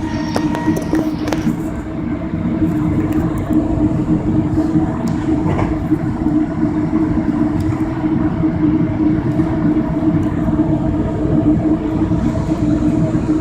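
Steady rumble and hum inside a moving passenger train car, with a few light clicks and rattles in the first couple of seconds.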